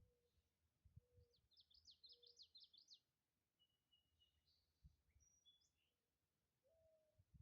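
Faint songbird singing: a fast run of high, falling notes in the first half, then a few thin, level whistles. Under it, a short low note repeats about once a second, with a few low thumps.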